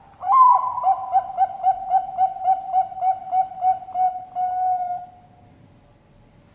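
Zebra dove (Bangkok perkutut) singing one full song: an opening coo, a quick even run of about a dozen short coos at nearly four a second, then a longer held final note.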